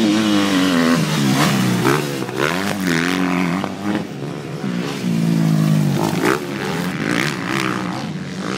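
Several motocross bikes racing by, their engines revving up and falling off again, the pitch rising and dropping every second or so with more than one bike heard at once.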